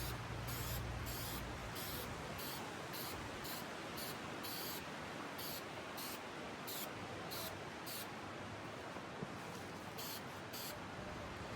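Aerosol spray can spraying paint in many short, quick bursts of hiss over a steady background hiss.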